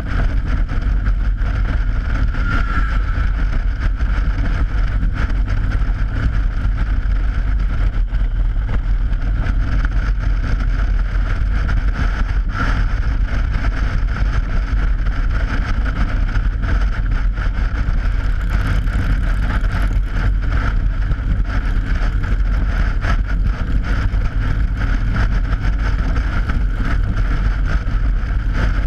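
Motorcycle riding at steady speed over a steel-grate bridge deck: a steady rumble of engine and wind buffeting the helmet-mounted microphone, with a constant hum from the tyres on the open grating.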